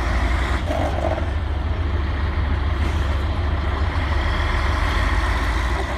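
Heavy off-road truck engine running with a steady low rumble.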